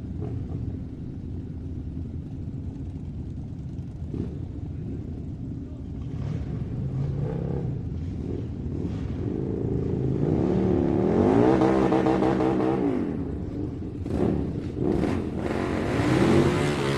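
Small motor running, its pitch rising and falling repeatedly as it speeds up and slows down, climbing highest in the middle and again near the end.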